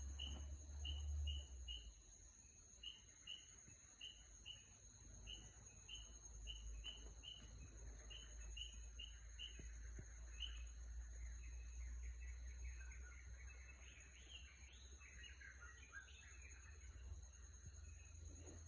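Birds calling faintly: one repeats a short chirp two or three times a second through the first half, then a more varied warbling song follows in the second half. A steady high insect drone runs underneath, with a low wind-like rumble.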